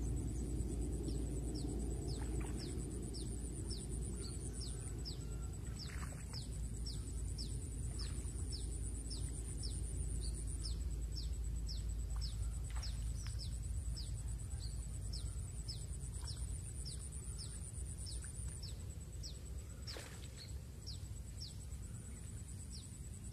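A bird repeating a short falling chirp about twice a second, over a thin high buzz that comes and goes in stretches of a few seconds, with a low rumble underneath.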